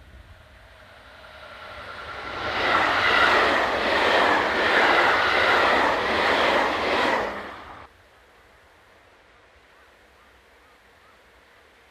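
A diesel-hauled freight train passing close by. It grows louder as it approaches, stays loud for about five seconds, then cuts off suddenly about eight seconds in.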